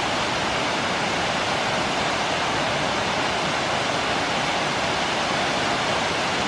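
Steady rush of falling water from a large, tall waterfall, heard as an even, unbroken noise.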